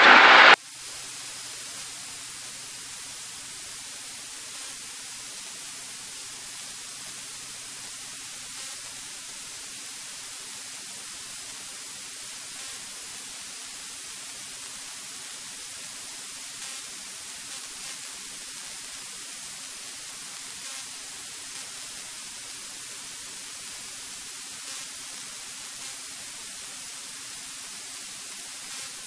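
Steady static hiss of a cockpit audio feed, with a faint steady low hum of the aircraft's engine underneath during the climb.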